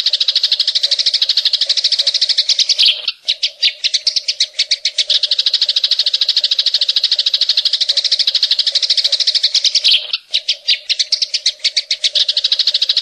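Cucak ijo (green leafbird) singing a fast, continuous chatter of rapid high notes. About three seconds in, and again near ten seconds, the chatter breaks into a string of sharper separate notes, the 'tembakan' (shot) phrases copied from the cililin.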